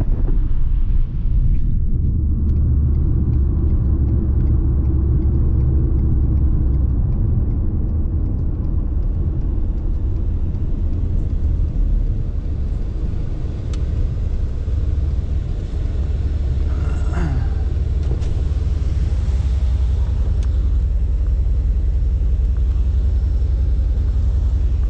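Steady low rumble of a Ford F-150 pickup driving at an even pace, engine and road noise with no hard revving.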